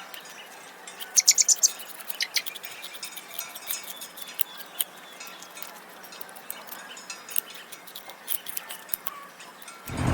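Small birds chirping and tweeting in short, high calls over a faint outdoor background, with a quick run of chirps about a second in.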